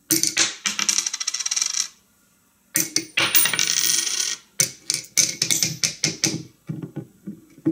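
Coins jingling and clinking: two long runs of rapid rattling, then a string of separate clinks.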